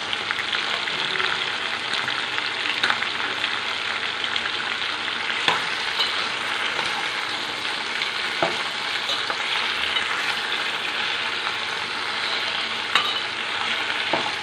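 Cubed pumpkin, capsicum, onion and tomato sizzling in hot oil while being stirred with a ladle, which knocks sharply against the pan a few times.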